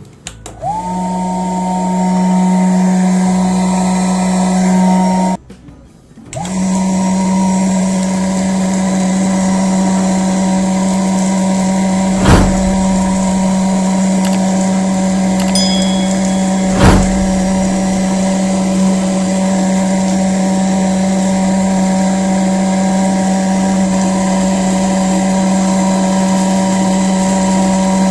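Homemade bottle vacuum cleaner's 12 V 13000 rpm DC motor and fan switched on, spinning up within a second to a loud steady whine. It stops about five seconds in, starts again a second later and runs on steadily, with two sharp knocks partway through.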